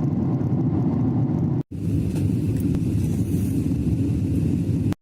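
Steady low rumble of a moving road vehicle, heard from inside the cabin. It drops out abruptly for an instant about a second and a half in, then carries on.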